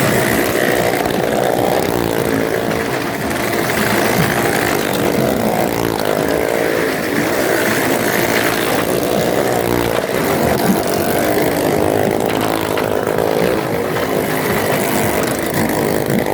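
Motorcycle engines running hard without a break, their pitch wavering up and down as the throttle rises and falls.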